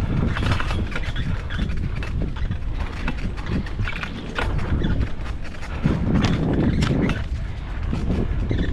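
Irregular knocks and crackles of movement, many per second, over a steady low rumble of wind on the microphone.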